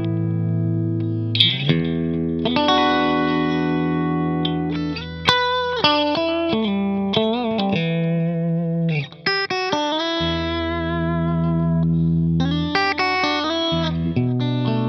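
Electric guitar, a Fender Stratocaster, played through a Walrus Audio Deep Six V3 compressor pedal into a 1974 Marshall JMP 100-watt Super Lead head. It plays long sustained chords and single notes, with string bends and vibrato in the middle.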